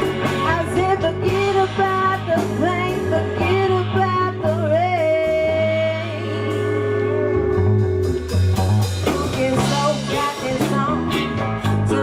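Live band music with a singing voice over guitar and bass; a long held note comes about halfway through.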